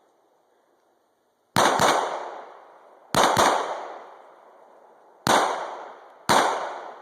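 Six sharp gunshots, each ringing out in an echo that fades over about a second. They come as two quick pairs, then two single shots about a second apart.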